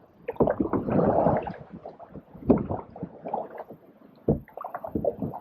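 Canoe paddles dipping and pulling through the water, with irregular splashing and gurgling, and a low thump a little after four seconds.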